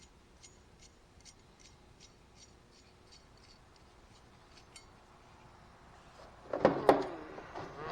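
Faint, evenly spaced metal clicks, a few a second, for the first several seconds, then louder clattering and knocking of metal parts near the end as hardware on the mower's lap-bar rod is handled.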